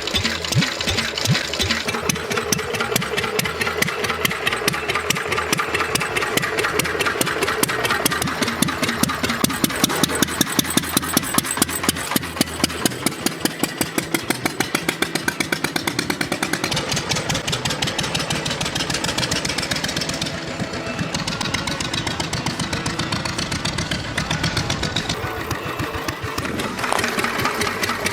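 Single-cylinder engine of a 1939 Royal Enfield Bullet motorcycle running with a fast, even beat, which grows more pronounced about a third of the way in.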